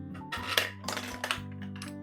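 Glass marbles clicking and clattering down a plastic marble run track, a quick run of knocks through the middle, over background music.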